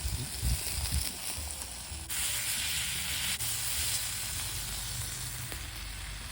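Meat sizzling on a thick iron griddle over a campfire, a steady hiss that grows louder about two seconds in.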